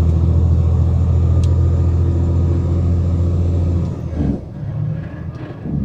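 Semi-truck diesel engine heard from inside the cab: a steady low drone that drops about four seconds in, then picks up with rising pitch twice.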